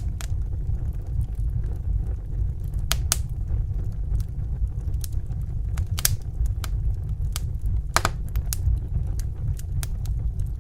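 Wood fire in a fireplace crackling: irregular sharp pops and snaps over a steady low rumble of burning, the loudest pop about eight seconds in.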